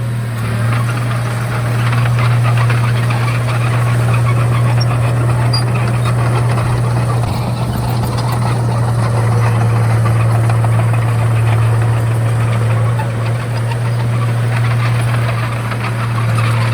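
Komatsu D31A bulldozer's diesel engine running steadily: a constant low drone with a dense mechanical clatter over it.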